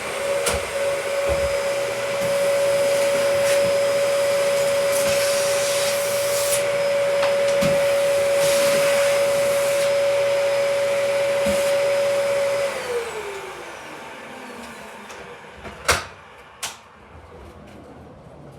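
Vacuum cleaner running with a steady high whine, then switched off about two-thirds of the way through, its pitch falling as the motor winds down. Two sharp clicks follow near the end.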